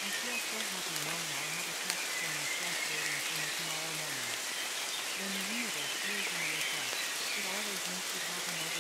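Steady rain noise, with a faint low voice speaking affirmations mixed underneath it.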